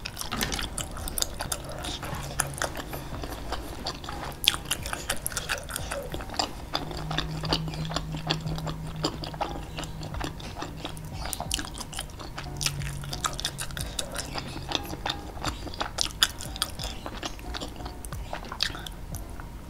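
Close-up chewing and wet mouth sounds of someone eating springy meatballs coated in thick chili sauce: many irregular sticky clicks and smacks. A few low steady hums come in the middle.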